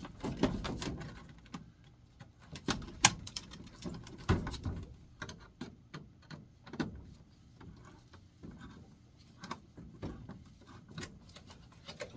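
Irregular clicks and knocks of hand work on a furnace blower assembly, with a couple of sharper knocks about three and four seconds in.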